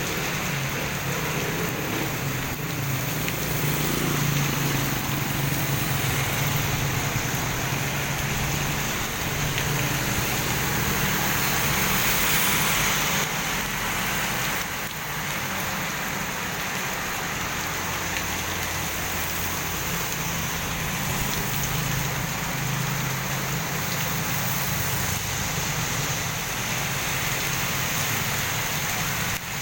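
Typhoon rain falling steadily, moderate to heavy, with a steady low hum underneath.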